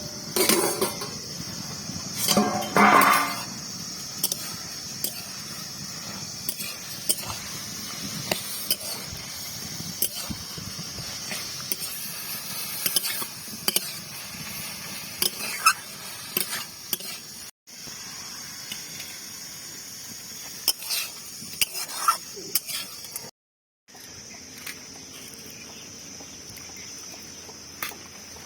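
Curry frying in a pan with a steady sizzle, while a metal spatula stirs and scrapes it, giving scattered clinks against the pan.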